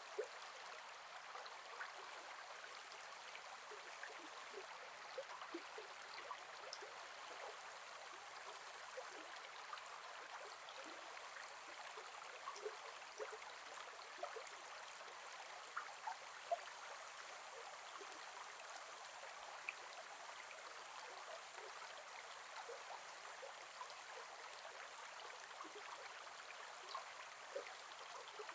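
Gentle forest river flowing steadily: a soft, even rush of water with many small scattered plinks and gurgles.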